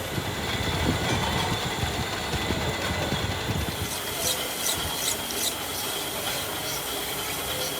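Metalworking noise in a hydraulic cylinder workshop: rough rubbing and scraping over a steady high whine. About four seconds in, there are four sharp ticks.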